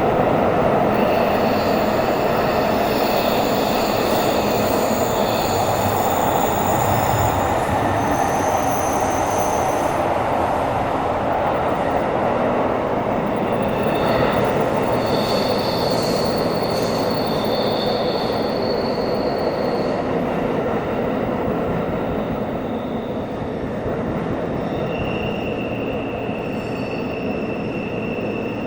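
Tokyo Metro 17000 series subway train running at speed through a tunnel, heard from inside the car: a dense rumble of wheels on rail with thin, high-pitched wheel squeal tones that come and go. The overall sound eases slightly near the end.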